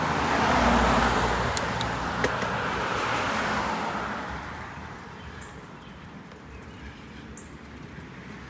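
A motor vehicle passing on the road: its tyre and road noise swells about a second in, then fades away over the next few seconds.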